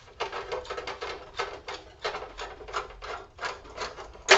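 Screwdriver scraping and rasping in a flathead screw slot as the screws are worked out, a string of short uneven strokes, then a sharp knock near the end.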